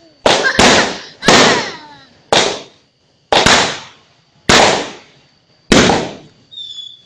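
Fireworks bursting: about seven loud bangs, roughly one a second, each echoing and fading away.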